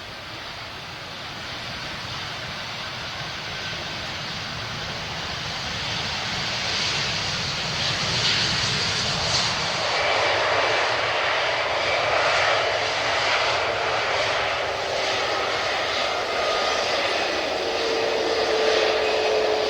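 Jet airliner's engines growing steadily louder as the aircraft nears, a broad rushing noise with thin whining tones coming in over the second half.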